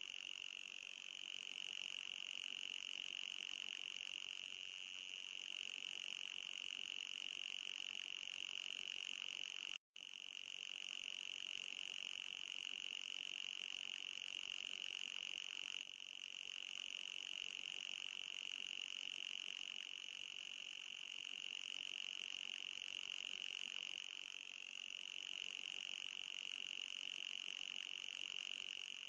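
Anti-mosquito repeller sound effect: a steady high-pitched tone with a second, higher band above it, wavering slightly in pitch. It cuts out for an instant about ten seconds in.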